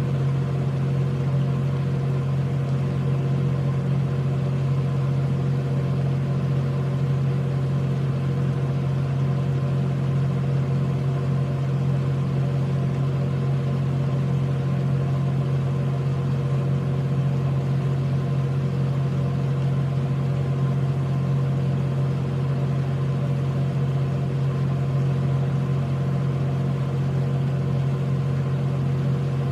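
A machine running with a steady, unchanging low hum, with several fainter steady tones above it and no change in pitch or level.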